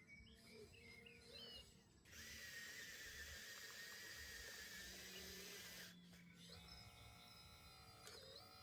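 Small electric motor of a 1:14 RC model, most likely the hydraulic pump of the RC excavator, whining steadily for about four seconds in the middle, over birds chirping.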